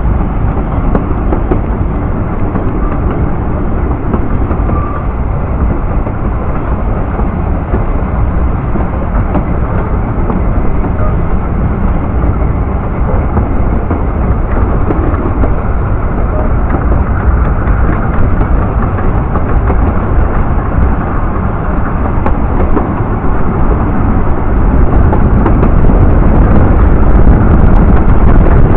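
Welsh Highland Railway narrow-gauge coach running through woodland, a steady loud rumble of wheels and running gear heard from the carriage, growing louder over the last few seconds.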